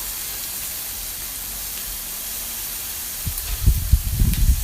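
Food sizzling on a hot grill pan: a steady hiss. In the last second and a half come several loud, irregular low thumps.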